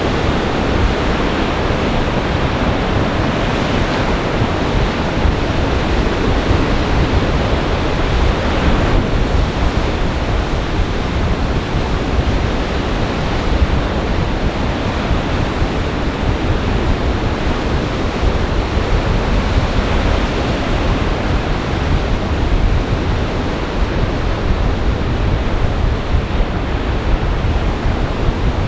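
Lake Michigan surf in a gale-force winter storm: a steady wash of breaking waves, with strong wind buffeting the microphone.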